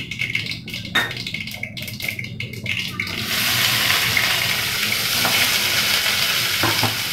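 Mustard seeds and dal crackling in hot oil in an iron kadai, then about three seconds in, chopped onions go into the oil and it breaks into a steady, louder sizzle.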